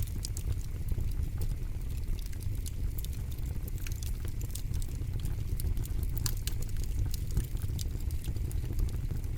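Wood campfire crackling: many sharp, irregular pops and snaps over a steady low rumble.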